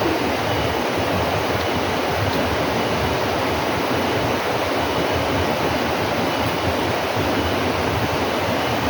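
Steady rushing water, an even unbroken noise like a stream or small waterfall.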